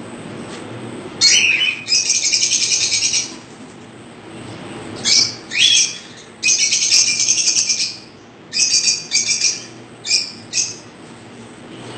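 Caged pet birds chirping loudly: two long bursts of rapid, buzzy chattering, each a second or two long, with short sharp chirps between them.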